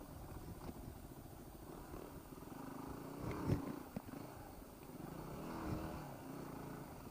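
Faint, muffled drone of a Yamaha WR250R's single-cylinder engine under way, its pitch wavering a little, with a couple of light knocks midway.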